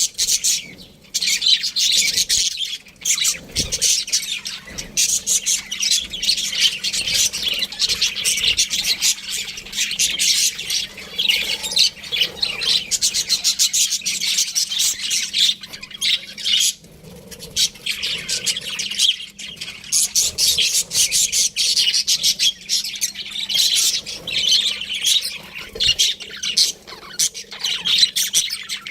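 Budgerigars chirping and chattering in a dense, rapid stream of high calls, with brief lulls about a second in and about seventeen seconds in.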